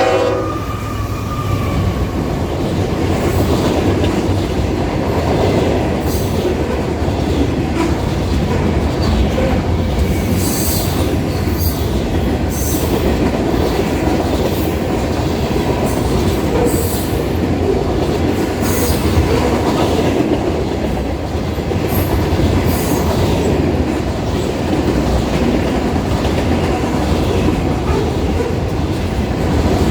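Union Pacific freight train rolling past: a steady, loud rumble of wagons with wheels clacking over the rail joints, and short high-pitched wheel squeals now and then through the middle stretch.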